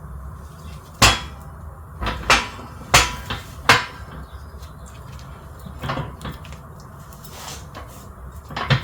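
Sharp metal-on-metal knocks and clanks from tools and a control arm bushing being handled at a workbench. There are four loud strikes in the first four seconds, then a few lighter knocks.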